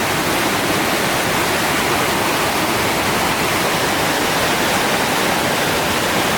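Running water rushing steadily, a dense even roar like a stream or small waterfall.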